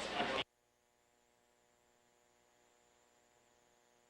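Hiss of an open radio voice channel that cuts off suddenly about half a second in, leaving near silence with a faint steady hum.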